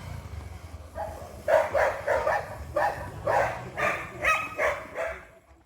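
A dog barking repeatedly, about ten short barks at roughly two a second, starting about a second in and fading out near the end.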